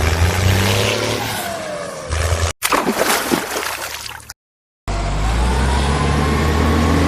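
Heavy vehicle engine running, in short clips cut together: a clattering stretch in the middle and a half-second drop-out to silence about four seconds in, then the engine runs steadily with a slowly rising whine.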